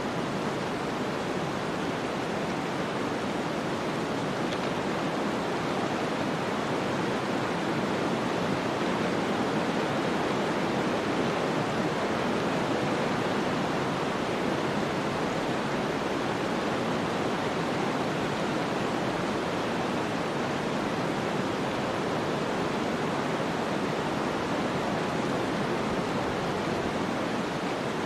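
Snowstorm ambience: a steady, even rush of wind and snow, swelling slightly about a third of the way in and easing back.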